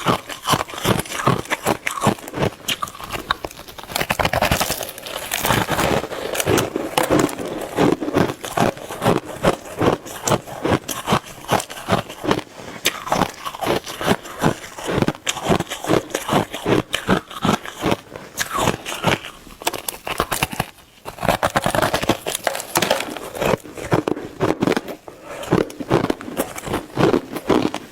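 Close-up crunching and chewing of shaved ice, with dense, rapid crackling bites.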